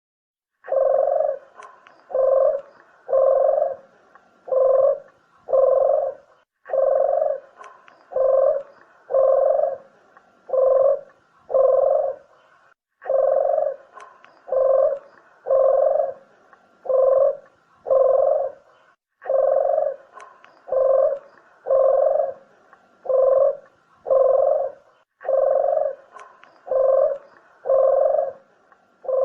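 Puter dove (collared dove) cooing: phrases of five low coos, each phrase repeated about every six seconds. This is a lure call played for attracting puter doves to shoot or trap.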